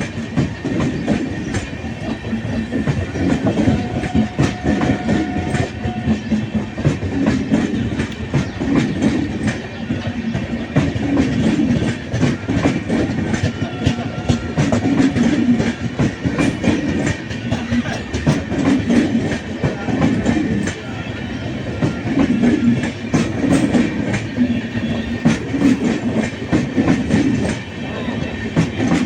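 Passenger train running on the track, its wheels clattering over rail joints in a steady clickety-clack over a continuous rumble.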